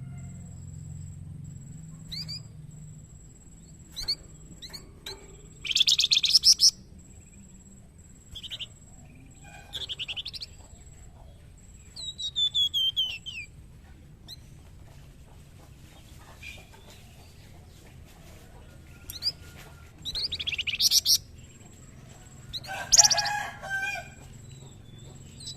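Young flamboyan songbird singing in short, separate bursts of high chirps and trills with pauses between them, including a run of falling whistled notes about halfway through. The loudest burst comes near the end and holds lower, harsher notes along with the high ones.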